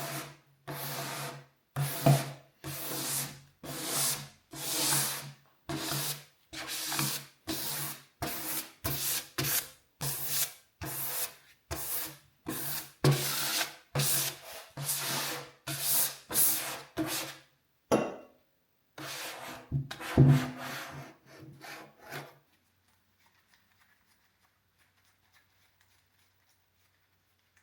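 Rusty iron horseshoe being worked by hand with an abrasive: rhythmic rasping rubbing strokes, about one a second, that stop abruptly well before the end.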